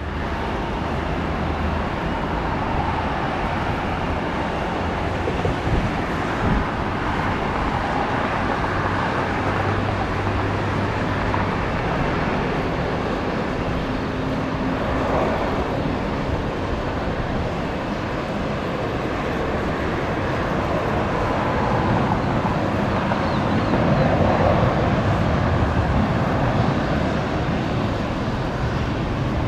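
Jet airliner engine noise at the airport, a steady rush that swells a little about three-quarters of the way through.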